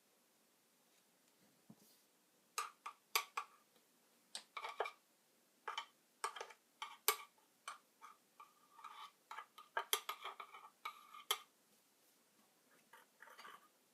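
Small metal objects clicking and clinking in irregular clusters, some clinks ringing briefly. The clinks start about two and a half seconds in, with pauses between the groups.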